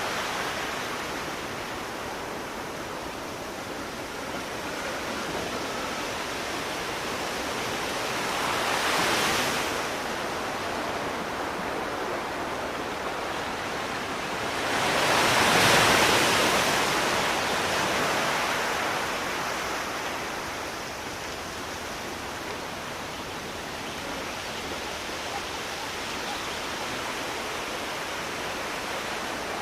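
Sea waves washing ashore: a steady hiss of surf with two waves swelling and fading, a smaller one about nine seconds in and a louder one around the middle.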